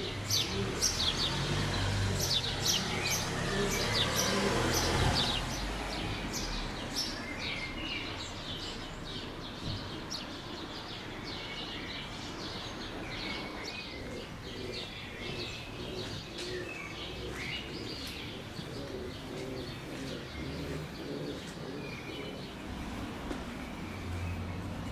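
Small birds chirping and twittering over and over, with a low rumble in the first five seconds.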